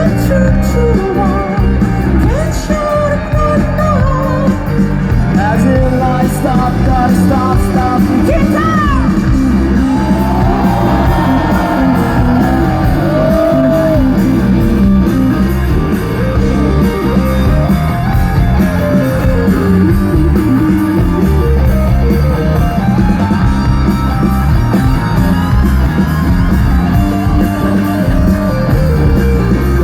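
Live rock band playing loudly: electric guitars and drum kit, with a voice singing over them.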